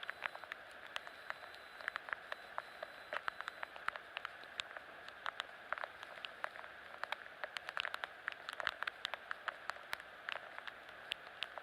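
Typhoon rain falling steadily, with many irregular drops pattering close by over a constant hiss of rain.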